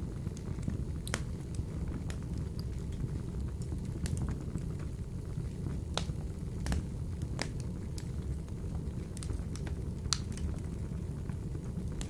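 Wood fire burning in a wood-burning stove: a steady low rumble of the flames with scattered sharp crackles and pops, a few louder snaps in the second half.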